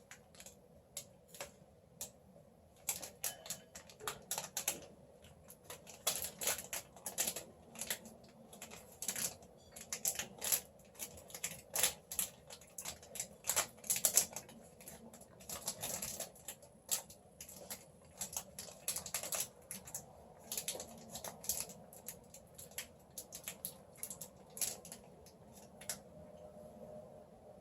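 Close-up chewing and crunching of a Mr. Big chocolate bar, its wafer, puffed rice and peanuts breaking between the teeth: irregular crisp crunches, often several a second, thinning out near the end.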